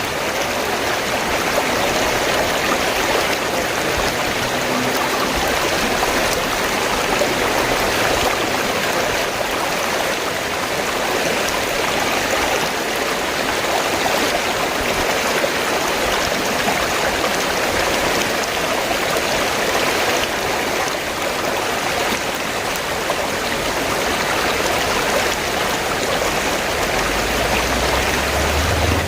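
Steady rushing of flowing river water, an even, unbroken wash of sound.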